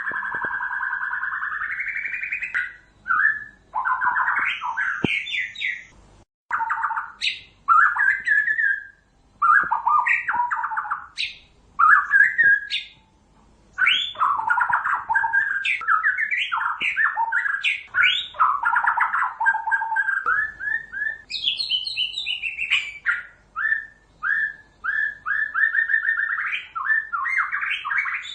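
White-rumped shama (murai batu) singing a long, varied song of loud whistled phrases broken by short pauses, with a fast run of repeated short notes near the end.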